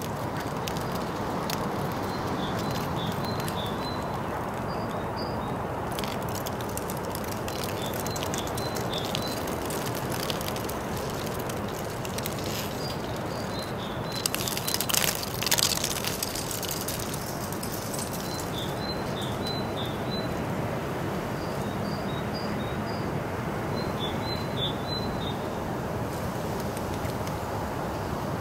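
Steady outdoor background noise with a small bird singing short runs of high chirps, repeated every few seconds. About halfway through, a loud clattering rattle passes, lasting a couple of seconds.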